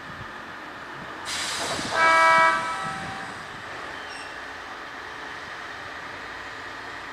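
A sudden rush of air hiss, then about two seconds in a single short blast of a train's air horn lasting around half a second, dying away into a steady background hum of the depot.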